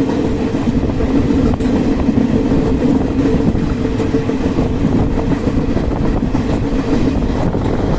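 Train running at speed, a loud steady rumble of wheels on rails with a steady hum over it that fades near the end.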